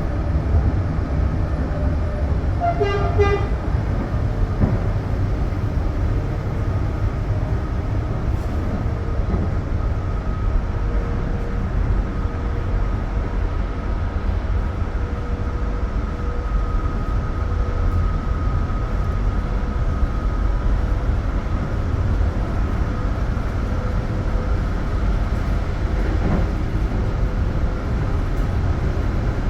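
Passenger train running on the rails with a steady low rumble and a faint steady whine, and a short horn toot about three seconds in.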